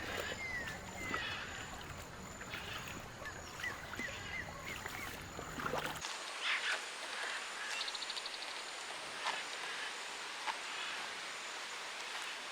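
Birds calling with short chirping notes over a steady outdoor background. About six seconds in, the low background cuts off abruptly. Quieter ambience with a few scattered chirps and a brief trill follows.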